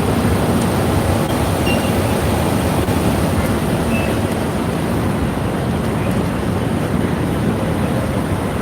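Loud, steady rumble of street traffic and vehicle engines, with no distinct events.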